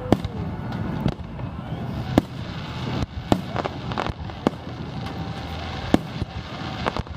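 Fireworks display: sharp bangs of bursting shells, about one a second, over a steady low background rumble.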